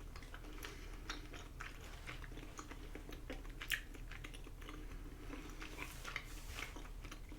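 Close-miked chewing of chewy Korean rice cakes (tteokbokki): soft, irregular wet mouth clicks and smacks.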